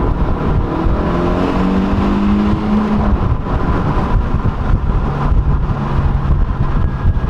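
2017 Honda Civic Si's 1.5-litre turbocharged four-cylinder accelerating, its note rising in pitch for about three seconds, then running on at a lower, steadier pitch after a shift, over a heavy low rumble.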